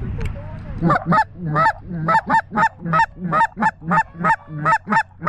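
Goose call blown in a quick, loud run of about a dozen honks, roughly three a second, starting about a second in.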